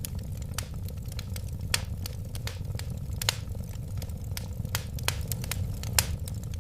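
Wood fire burning with a steady low rumble and irregular sharp crackles and pops, the loudest about two, three and six seconds in.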